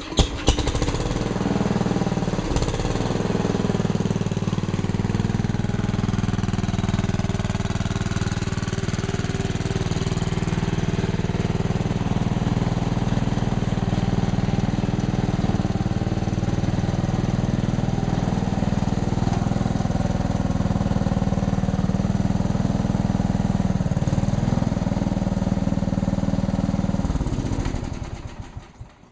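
Small garden tractor engine running steadily, then fading out near the end.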